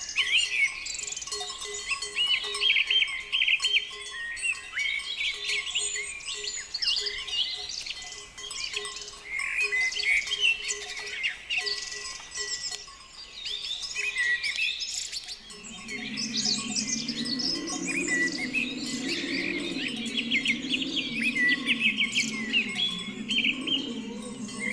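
Many small birds chirping and twittering in quick, overlapping calls. About two-thirds of the way through, a low, slowly wavering hum joins in underneath.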